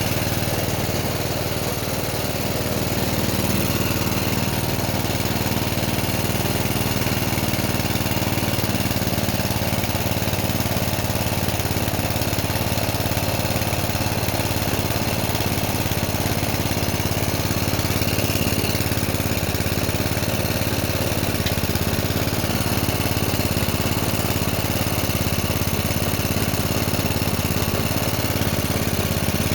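Coleman mini bike's small single-cylinder four-stroke engine running steadily at a low idle after a carburettor clean and a new spark plug.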